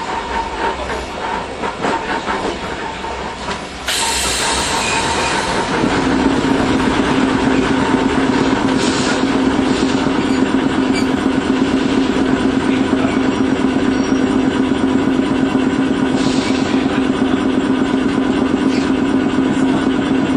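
Onboard running sound of an older Iyotetsu Matsuyama city-line streetcar. About four seconds in, the noise jumps with a sudden loud hiss, and from about six seconds a steady motor hum holds one pitch as the car runs along the rails.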